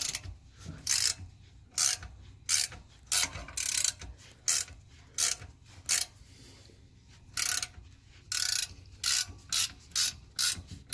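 Ratchet wrench turning the forcing screw of a two-jaw gear puller in short back-and-forth strokes. Each stroke gives a short burst of ratchet clicks, about once or twice a second, with a pause in the middle. The puller is drawing the pinion flange off a Ford 8.8 rear axle.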